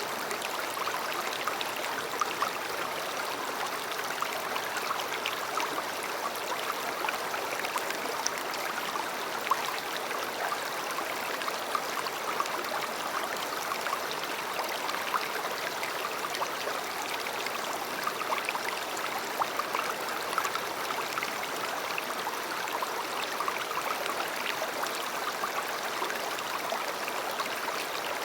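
A river flowing steadily, its water rushing and babbling with small splashes.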